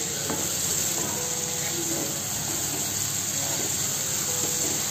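Chicken pieces and ground masala paste sizzling steadily in oil in an aluminium kadhai while a spoon stirs them through.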